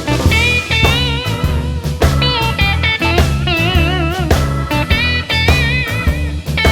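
Blues music, an instrumental break: a lead guitar plays sustained notes with wide vibrato over a steady bass and drum rhythm.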